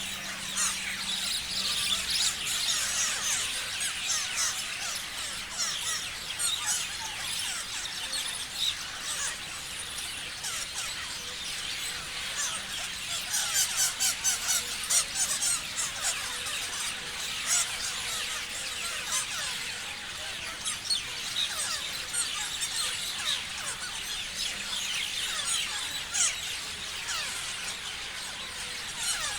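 A flock of parrots chirping and screeching, many short, shrill calls overlapping without a break.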